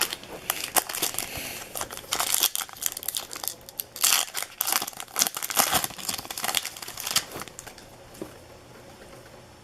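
Baseball card pack wrappers being torn open and crinkled: a dense run of crackles and tears that dies away about seven and a half seconds in.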